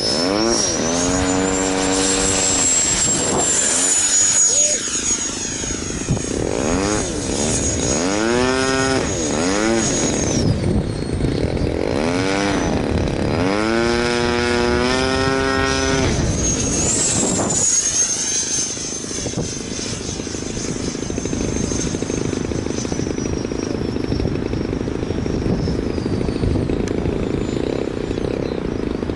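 Electric ducted fan of a 105 mm 12S RC jet model whining in flight. Its high whine climbs early on, holds, then drops and comes back as the throttle changes. A lower fan tone swoops down and up in pitch several times, over the rush of strong wind.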